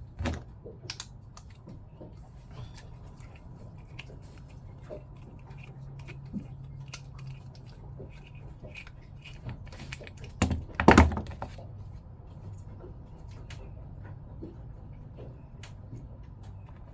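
Small irregular clicks and taps of pump parts and tools being handled during disassembly, with a louder clunk about halfway through, over a low steady hum.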